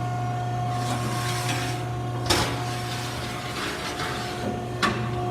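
Wysong power shear running with a steady hum, its blade cutting 10-gauge sheet steel twice, each cut a sharp clank, about two and a half seconds apart.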